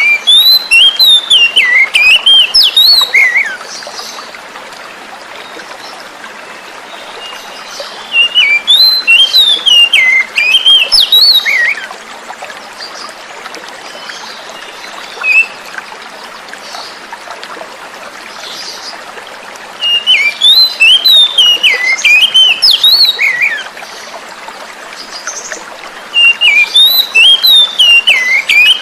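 Oriental magpie-robin singing in four bursts of quick, varied whistled notes, with pauses between them, over a steady rush of flowing water.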